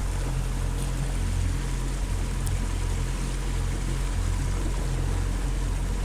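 Motorboat engine running steadily, a low drone under a constant wash of water noise.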